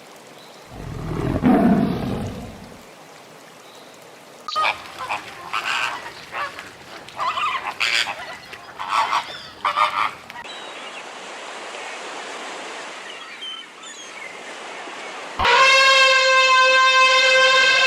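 A series of animal calls one after another: a low rumbling sound about a second in, a run of short repeated calls in the middle, a stretch of steady hiss, then a loud, long pitched call from about three-quarters of the way through.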